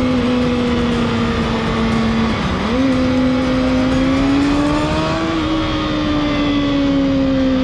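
Motorcycle engine running at a steady speed over wind and road noise. About two and a half seconds in, the engine pitch dips briefly, then climbs slowly and eases off again.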